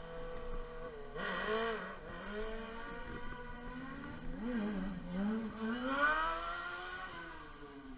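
Small two-stroke motorcycle engine revving up and dropping back several times while riding off road. Its pitch climbs and falls in repeated surges, then the sound fades away near the end.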